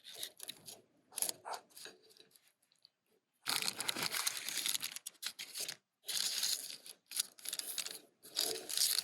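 Crinkling and tearing of a thin wrapping sheet in three loud bursts, the first and longest starting about three and a half seconds in, after faint handling sounds.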